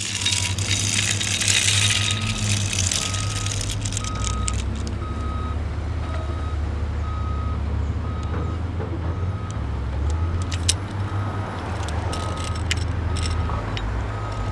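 A truck's engine running with its reverse alarm beeping about once a second, from about two seconds in, and a few sharp clanks and clicks over it.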